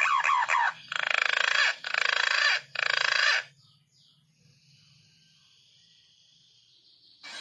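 Green pigeon (punai) calls, a recording used as a lure: wavering, swooping whistles that stop under a second in, then three harsh, buzzy notes in a row, then only a faint high sound until a new call starts near the end.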